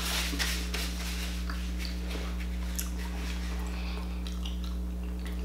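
Soft chewing and mouth clicks from someone eating close to the microphone, over a steady low electrical hum.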